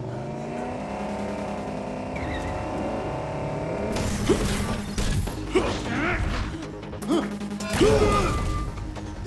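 Cartoon car-robot transformation sound effects over background music: a steady mechanical hum for about four seconds, then a quick series of sharp clanks and swooshes.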